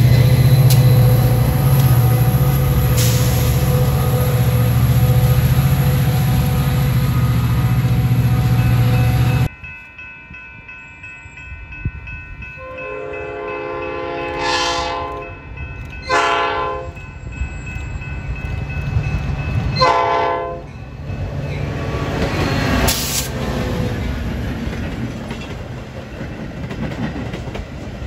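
A Metra commuter train's diesel locomotive runs with a loud steady hum as it moves past at close range. After a cut, a second Metra train in the distance sounds its horn, one long blast and two shorter ones. Its rumble and wheel clatter then grow louder as it comes near and passes.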